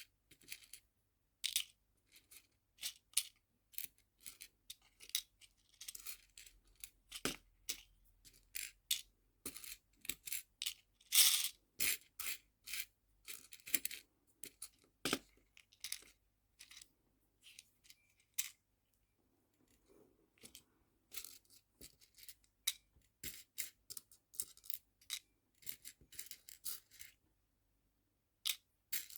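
Small nail-art charms clicking and clinking as they are handled and sorted into small storage boxes: a scattered run of sharp little taps, some in quick clusters, with a short pause near the end.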